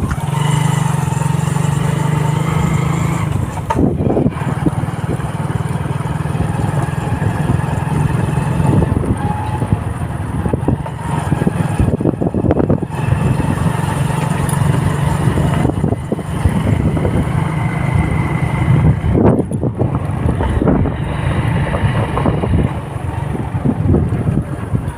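A road vehicle's engine running steadily while on the move, with the hum easing briefly a couple of times.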